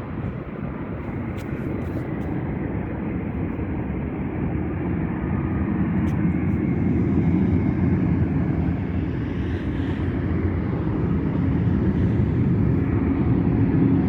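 Jet airliner's engines running, a steady rumble that grows gradually louder as the aircraft comes nearer.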